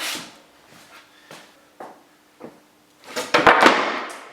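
Truckless skateboard deck knocking and scraping on carpet: a hit with a scrape at the start, a few light taps, then a longer stretch of knocks and scraping about three seconds in, the loudest part.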